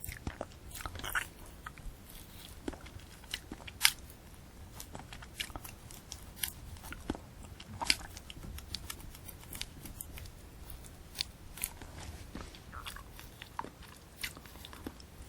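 Close-miked eating of a candy apple: bites and chewing through the hard red sugar-candy shell and crisp apple, with many sharp irregular crunches and crackles, the loudest about four and eight seconds in.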